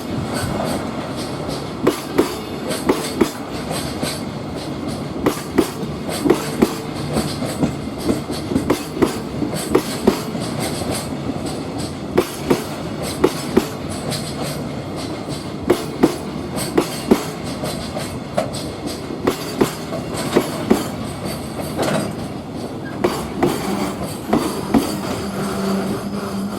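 A freight train passing close by, its wagon wheels clacking in quick pairs over the rail joints under a steady rolling rumble.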